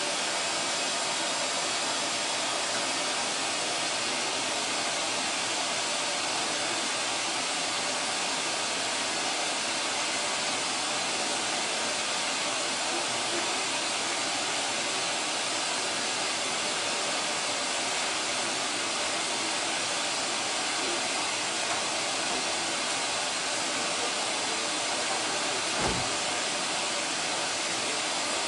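Steady, even hiss like static or white noise, unchanging in level throughout, with one faint knock near the end.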